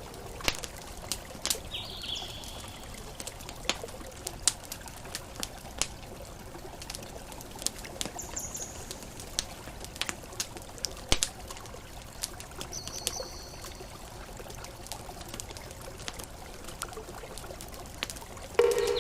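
Campfire crackling, with irregular sharp pops and snaps, over a steady wash of water from gentle ocean waves. Three brief high whistles come and go, and a short low pitched tone sounds near the end.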